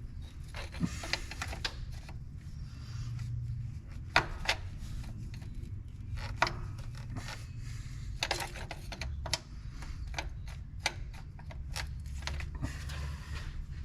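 Hand tools clinking and knocking on metal during repair work: irregular sharp clicks and taps over a low steady hum.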